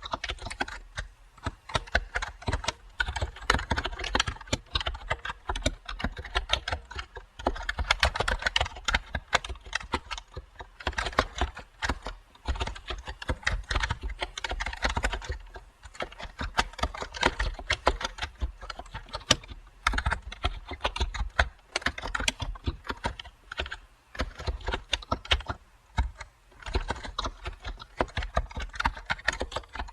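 Computer keyboard typing, dense runs of key clicks that pause briefly every few seconds.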